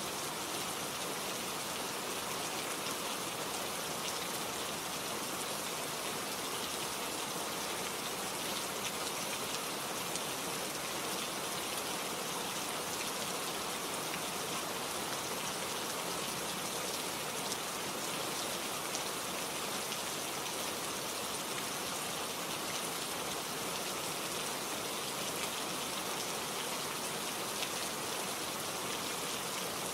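Steady rain falling, a dense even hiss of raindrops with fine patter on the surfaces it strikes.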